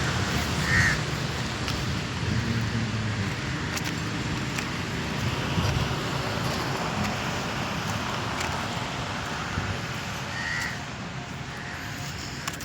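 A bird gives a few short calls, about a second in and twice near the end, over a steady background noise.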